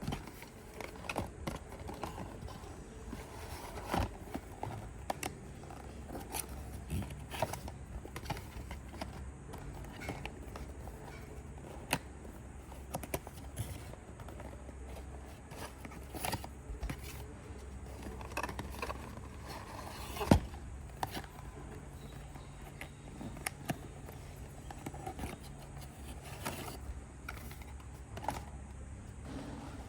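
Plastic toy packaging being opened and handled: crinkling and rustling with scattered clicks and knocks of small plastic toys, the sharpest knock about twenty seconds in.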